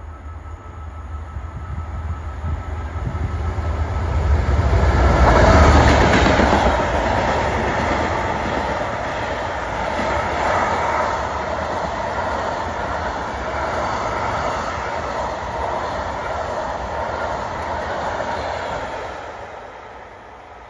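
DB Class 66 diesel locomotive, with its two-stroke EMD V12 engine, approaching and passing at speed. Its low rumble builds to a peak about five seconds in. Then a long rake of loaded china clay wagons rolls past with steady wheel-on-rail noise, fading away near the end.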